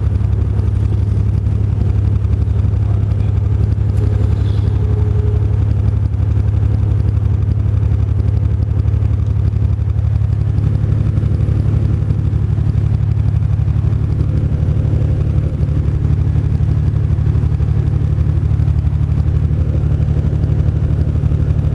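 Truck engine running at a steady speed: a loud, even low drone that holds its pitch throughout.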